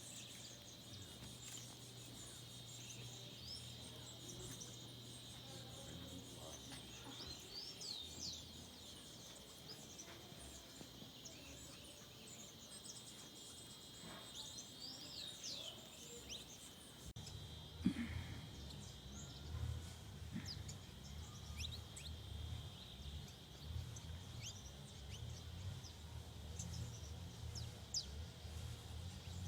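Mountain forest ambience: a steady high insect drone with scattered short bird chirps and calls. A little past halfway, a low rumble comes in underneath.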